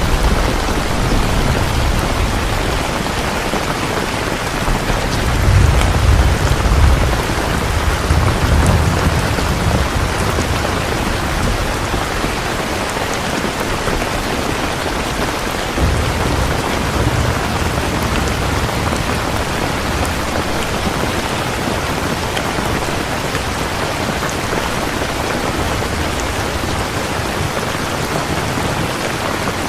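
Steady heavy rain falling in a dense, even hiss, with low rumbles of thunder swelling about five seconds in and again around the middle.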